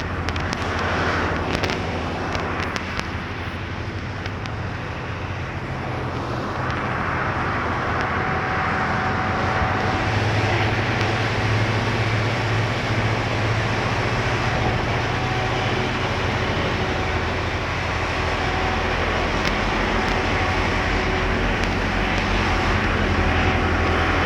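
D&S Quicksilver touchless in-bay car wash running its cycle: a steady rushing noise that swells about six seconds in, over a steady motor hum with a faint whine.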